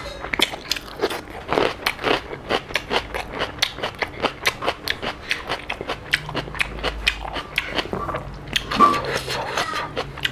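Close-miked eating: rapid crunches, several a second, as a slice of raw red onion is bitten into and stir-fried octopus with rice is chewed.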